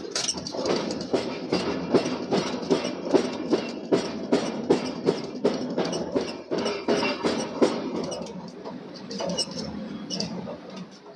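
Hammer blows on steel being forged: a fast, regular run of sharp strikes, about three a second, that thins out and weakens after about eight seconds.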